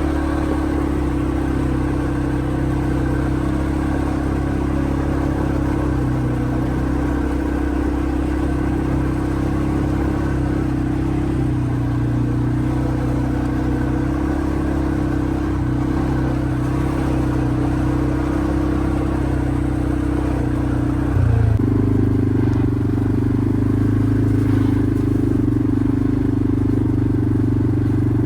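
Quad bike engine running steadily under way. About three-quarters of the way through it briefly surges, then settles into a slightly different steady note.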